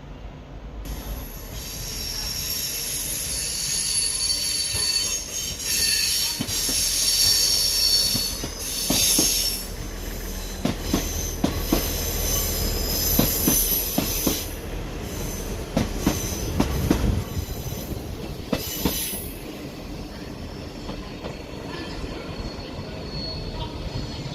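A train moving through the station with its wheels squealing high and shrill for the first half. This is followed by a run of sharp clicks as the wheels cross rail joints, over a low rumble.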